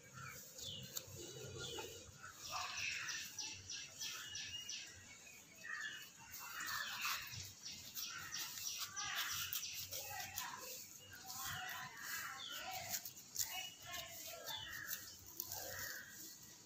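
Faint chirping of small birds, with a quick run of repeated chirps about three seconds in and scattered calls after that.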